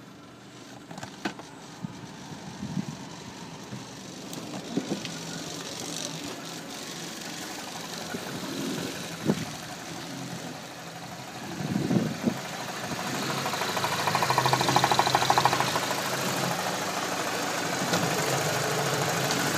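A BMW E46 2.0-litre petrol engine running steadily at idle. Scattered clicks and thumps come through in the first half, and the sound gets louder about 13 seconds in.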